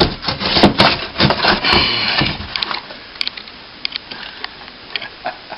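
Plasterboard being snapped and broken away by hand around the hole, a dense run of cracking and crackling for the first two or three seconds, then a few scattered clicks.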